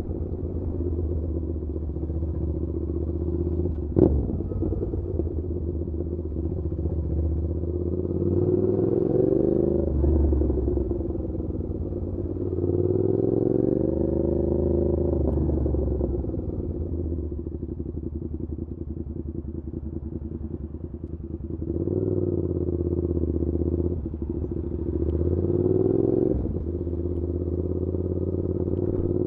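Suzuki SV650's 645 cc V-twin through an aftermarket SC Project exhaust while riding: the engine note climbs several times as the bike accelerates, then dips for a few seconds as the throttle eases off in the middle. There is a single sharp click about four seconds in.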